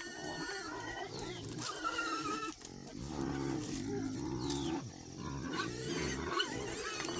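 Pigs grunting, with higher squealing calls now and then, some sliding quickly down in pitch.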